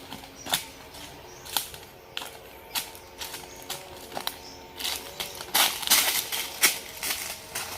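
Irregular sharp clicks and snaps, coming more thickly about five to seven seconds in, over a faint steady hum.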